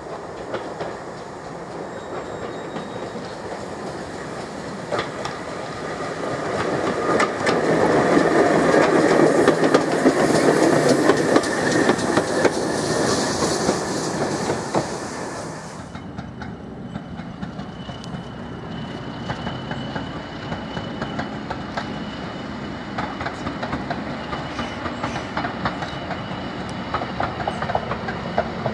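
GWR Pannier tank 6430 and its auto coach passing close by, the rumble building to a peak and fading as it goes. After a cut, a rake of coaches rolls past, the wheels clicking over the rail joints, with a thin steady wheel squeal.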